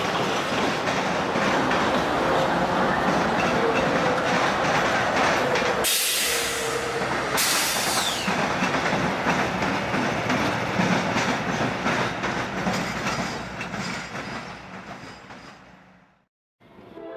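Freight train rolling past: covered hopper cars with steady wheel-on-rail noise and some clatter, then CSX diesel locomotives passing with engine drone, the sound fading away near the end. About six seconds in there is a brief loud hiss lasting a second and a half.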